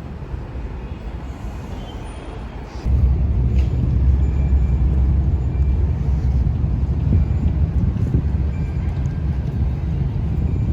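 Outdoor city ambience: a steady low rumble that suddenly gets louder about three seconds in and stays loud.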